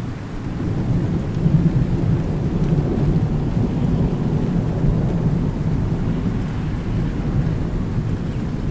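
Thunderstorm: a long roll of thunder rumbling over steady rain. The rumble swells over the first second or so, then holds.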